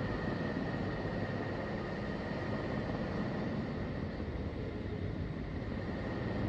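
NASA space-sound recording of Neptune, made from Voyager probe data: a steady, noisy rumbling drone with a faint high whistle-like tone running through it.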